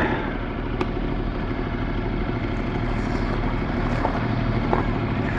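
Ducati Multistrada 1260 S's V-twin engine running steadily at low revs, with a few light knocks.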